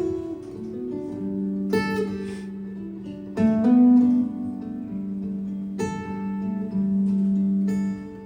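Instrumental passage of a live acoustic performance: strummed acoustic guitar chords, a few seconds apart, over long held notes.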